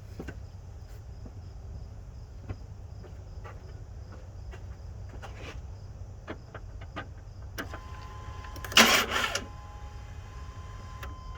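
A 1998 GMC K1500's 5.7 L V8 is bumped over briefly on the starter, one short crank of under a second about nine seconds in, to turn the distributor. Before it come light scattered clicks over a steady low hum, and a steady tone starts shortly before the crank.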